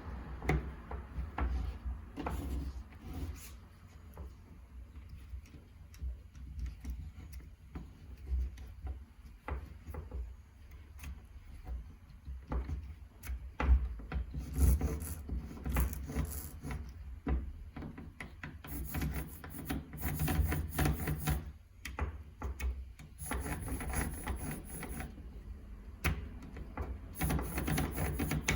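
Hand work on a small power tool's parts: repeated scraping and rubbing strokes in bouts of a second or two, with scattered sharp clicks of small metal parts being handled.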